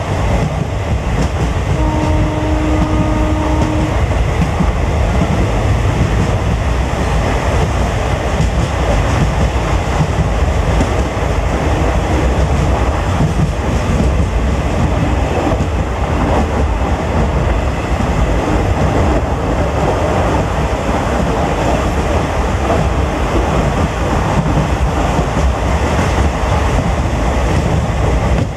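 Passenger train running steadily, heard from on board: a continuous rumble with wheels clattering over the rails. A short steady tone sounds about two seconds in.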